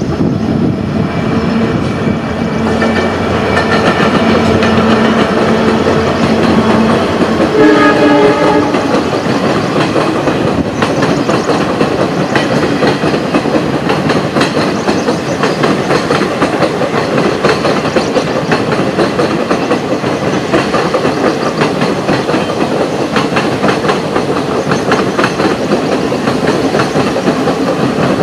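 An EMD WDP 4B diesel locomotive hauling an express passenger train runs past with a steady engine drone. About eight seconds in it gives a short horn blast of several tones. After that, the coaches roll by with a continuous clickety-clack of wheels over rail joints.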